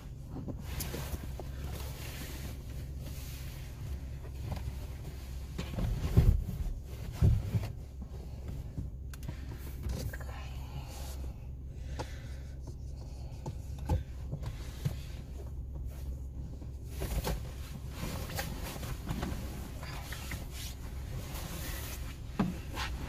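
Scraping, rubbing and rustling of bedding and gear being handled and packed inside a small car, with two louder thumps about six and seven seconds in, over a steady low hum.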